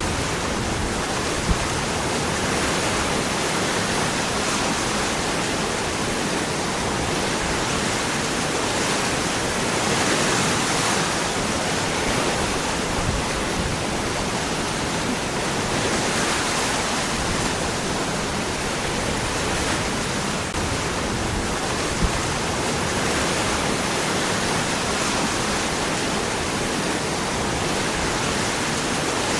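Waterfall: water pouring over and between rocks in a steady, dense rush.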